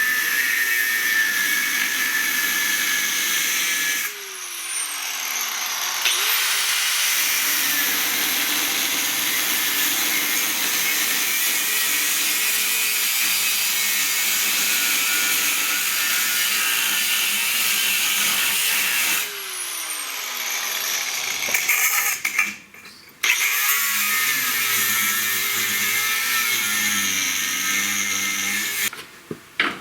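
Angle grinder with a cut-off wheel cutting through steel to remove a welded-in stub, a loud steady hiss-like cutting sound. Twice the tool is let off and the disc spins down with a falling whine before it cuts again, and it stops near the end.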